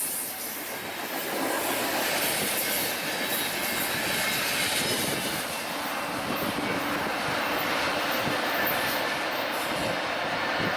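Freight train cars rolling past, a steady noise of steel wheels on rail.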